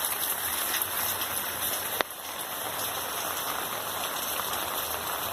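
Steady rain falling and pattering on plants and surfaces, with a single sharp click about two seconds in.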